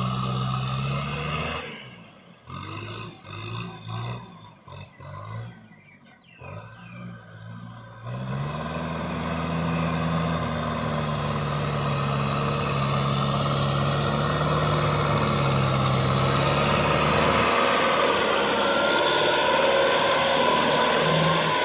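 Kubota tractor engine working hard while plowing in mud, a loud steady drone. It turns choppy and uneven for several seconds after the start, then runs steadily and loudly from about eight seconds on, its pitch shifting a little.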